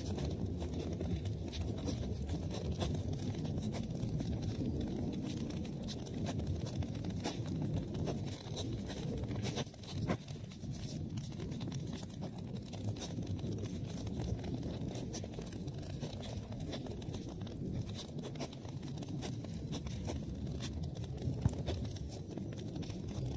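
Wood fire burning in a fireplace: a steady low rumble of flames with frequent small crackles and pops, and one sharper pop near the end.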